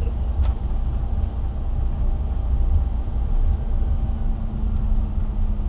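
Steady low rumble of a moving vehicle heard from inside its cabin, with a steady hum running under it.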